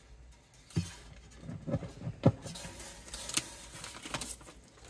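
Handling and opening individually wrapped guitar string packets: crinkling of the wrapping, with two sharp knocks, one about a second in and a louder one just after two seconds.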